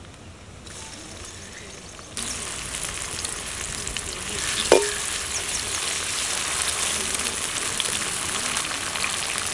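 Chopped capsicum dropped into hot oil and garlic in a metal kadai, setting off a loud, steady sizzle about two seconds in. A perforated ladle clanks once against the pan and stirs the frying pieces.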